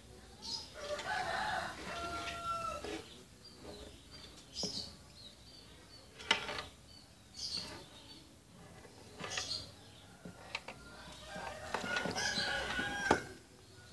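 Birds calling: two longer pitched calls, one about a second in and one near the end, among short high chirps. Two sharp knocks stand out, one midway and one near the end.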